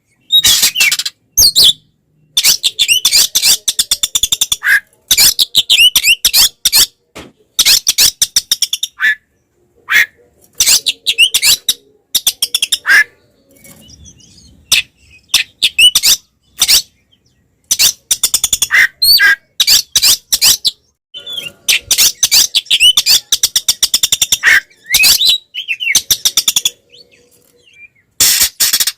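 Oriental magpie-robin (kacer) singing loudly in rapid, varied, high-pitched phrases, delivered in bursts with short pauses between them; the excited, aggressive song used to provoke other male magpie-robins.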